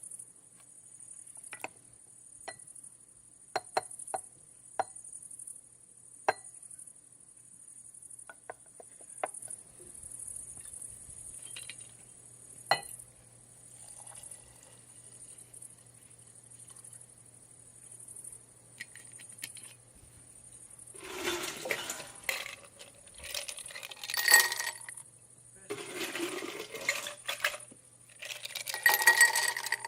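Scattered sharp clinks and clicks of small hard objects, then several seconds of loud rattling and handling noise in the last third. A steady high pulsing buzz runs underneath.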